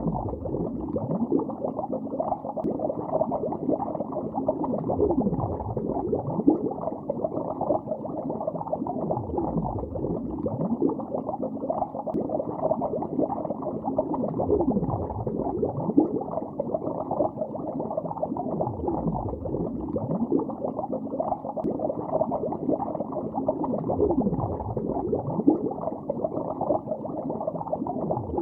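Water bubbling continuously as heard underwater: a dense, muffled stream of bubbles and gurgles with almost no high end. A low swell recurs every four to five seconds.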